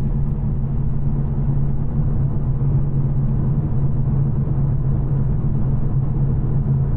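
2024 Ford Mustang GT's 5.0-litre Coyote V8 with its stock exhaust, running steadily at a constant engine speed with a low drone.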